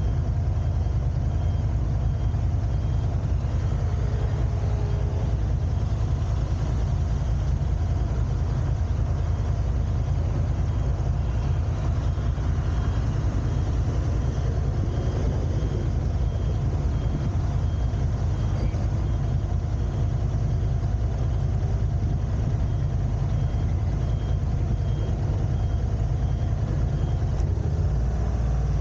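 Car driving steadily, with a continuous low engine and road rumble.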